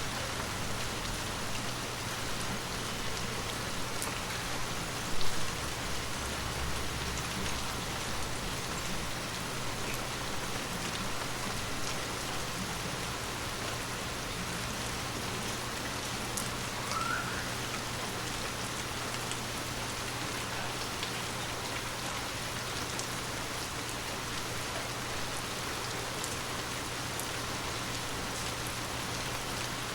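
Steady heavy rain falling, with scattered sharp drop ticks and a constant low hum underneath. A single loud thump about five seconds in.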